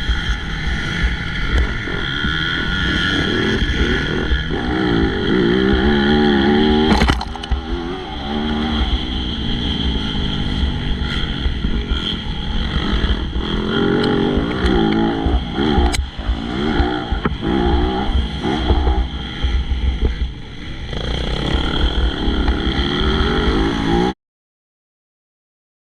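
MX2 motocross bike engine revving hard and easing off again and again as it works through the track, with scattered clicks and knocks. The sound cuts out completely for the last couple of seconds.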